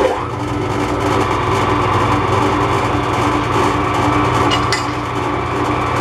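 MAS metal lathe running steadily under power, a constant motor and gear-train hum with several held tones, starting abruptly.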